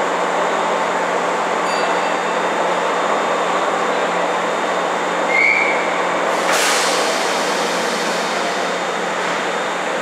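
Kintetsu 1810-series two-car local train standing at an underground platform, its equipment humming steadily. About six and a half seconds in there is a sudden hiss of air that fades over a couple of seconds.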